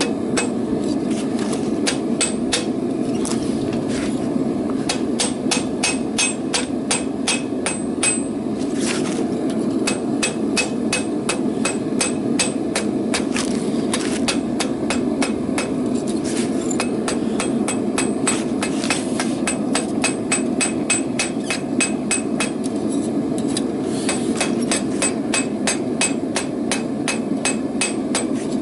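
Hand hammer striking hot steel rebar on an anvil in a steady run of blows, about three to four a second, each with a bright metallic ring and a few short pauses between runs. A steady low rushing noise runs underneath.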